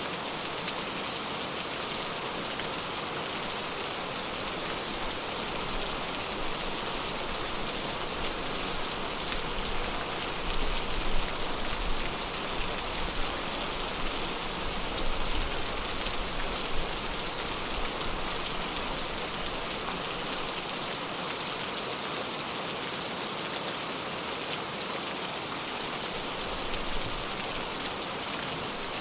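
Steady rain falling on a surface, an even hiss of drops, with a low rumble swelling for several seconds in the middle.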